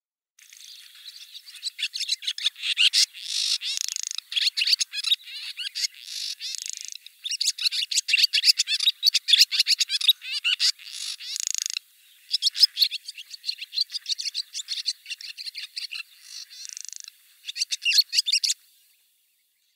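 Barn swallow singing: a fast, continuous twittering warble of chirps mixed with buzzy rattles, with a brief break about twelve seconds in, stopping shortly before the end.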